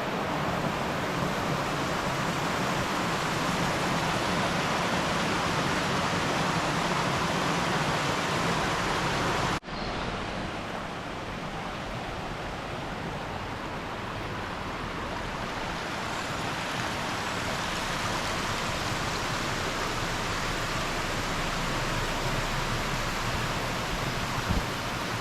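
Steady rushing of flowing water, broken by an abrupt dropout about ten seconds in, after which it carries on slightly quieter.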